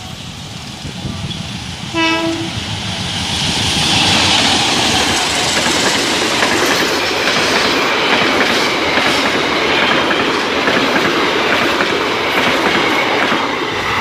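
A train sounds one short horn blast about two seconds in, then passes close by. The loud rumble and clatter of its wheels on the rails builds up and holds steady.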